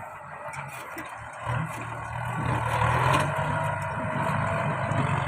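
Tractor engine working, growing louder about a second and a half in, with a thin whine above the rumble.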